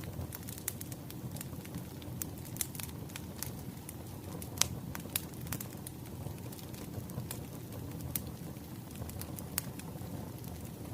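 Burning firewood crackling, with frequent sharp pops and snaps over a low steady rumble; the loudest pop comes a little before halfway through.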